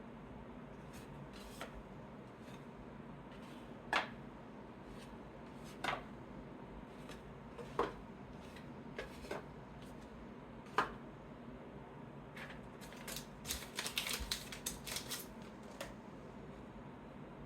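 Trading cards being handled and sorted by hand on a table: a few separate light taps and flicks a couple of seconds apart, then a quick flurry of small clicks and rustles near the end.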